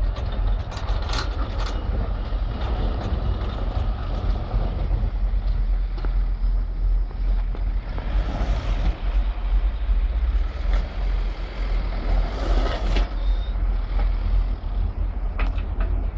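Vehicle engine running with a steady low rumble, with scattered knocks and clicks over it.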